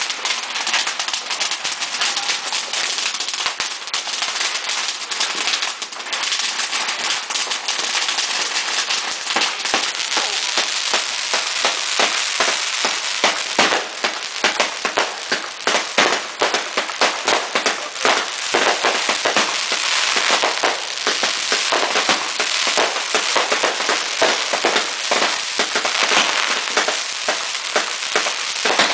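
Several consumer fireworks going off together: a continuous, dense crackling with rapid pops, many reports a second, thickening and getting louder about ten seconds in.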